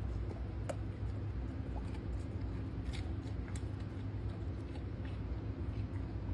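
A dog crunching on a frozen cucumber: a few sharp, scattered crunches over a steady low rumble.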